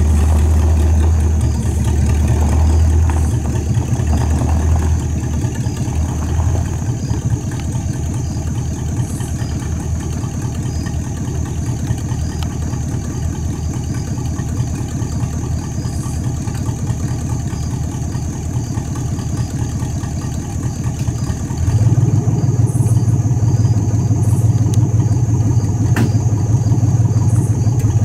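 1964 Dodge Polara 500's V8 engine running as the car is driven slowly under its own power, a steady low rumble that pulses a little at first. About three-quarters of the way through, the engine note steps up and gets louder, then holds.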